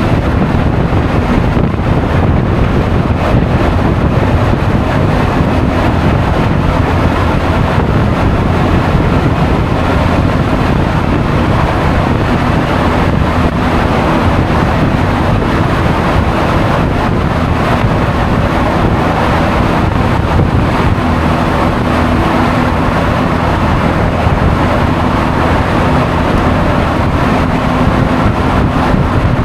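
Wind rushing over an action camera's microphone while riding a Honda Forza 350 scooter, with engine and road noise underneath. A faint steady engine note shows through now and then in the second half.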